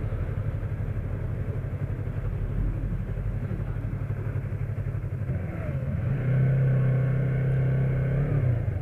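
Motorcycle engine running at a low, steady beat, then rising in pitch and getting louder about five and a half seconds in, holding there for a couple of seconds and dropping back near the end.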